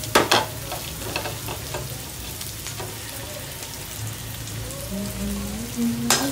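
Onion, garlic, ginger and chilli frying in hot oil in a pan, giving a steady sizzle, with a few sharp clinks of a utensil on the pan at the start.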